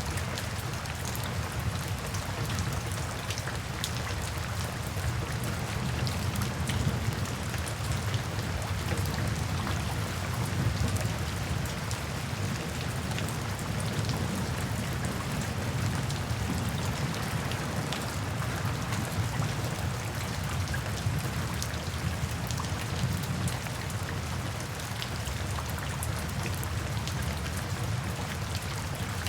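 Steady rain falling, with individual drops ticking through it and a constant low rumble underneath.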